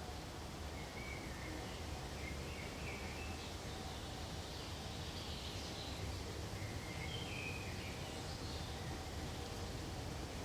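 Forest ambience: a steady soft rustling hiss with faint, high bird chirps scattered through it, a few around one to three seconds in and more around seven to eight seconds in.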